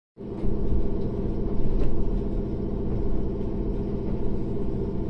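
Steady low rumble and hum of railway machinery heard inside a limited-express passenger car standing at a station, starting abruptly just after the beginning.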